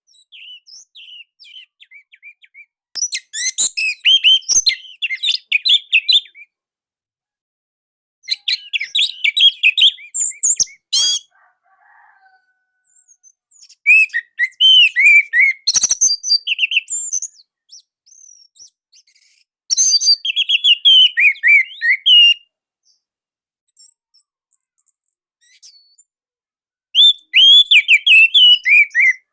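Orange-headed thrush (anis merah) singing: five loud phrases of fast, high warbling notes, each two to three seconds long, with softer twittering in the pauses between them.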